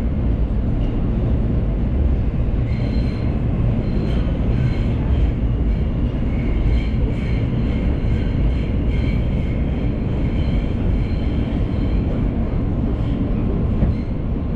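New York City subway train running on the F line: a steady low rumble of the cars on the track, with high wheel squeal coming and going over it.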